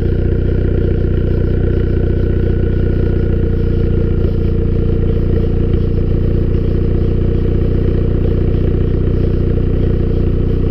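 Ford Focus ST's turbocharged four-cylinder idling steadily through a straight-piped exhaust with a catless downpipe and deleted muffler.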